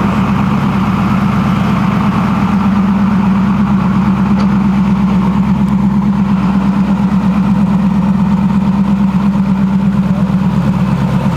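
Truck engine idling steadily, a deep even rumble with a quick regular pulse in its loudness.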